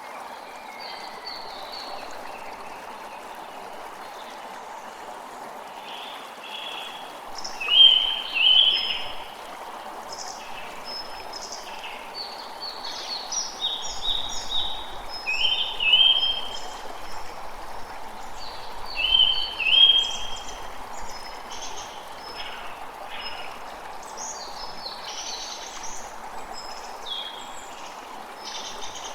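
Creek water running steadily, with forest birds calling over it throughout. One louder bird gives short calls in pairs about eight, sixteen and twenty seconds in.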